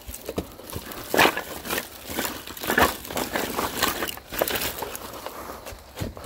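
Split firewood being handled and stacked: irregular wooden knocks and clatters with rustling between them.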